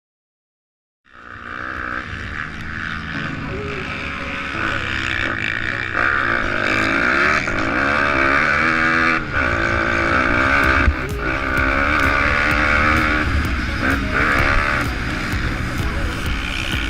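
Pit bike engine running and revving, its pitch rising and falling repeatedly as it speeds up and slows; the sound starts abruptly about a second in.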